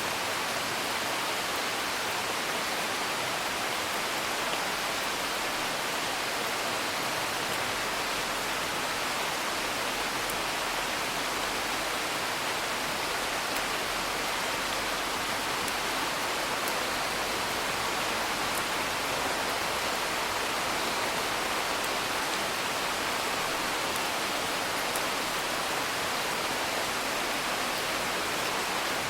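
Steady rain heard from indoors, an even hiss, with a few faint crackles from a wood fire.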